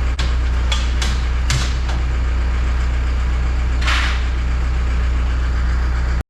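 Engine idling steadily with a deep, even hum, with a few light knocks and clanks in the first couple of seconds and a short scrape about four seconds in; the sound cuts off suddenly near the end.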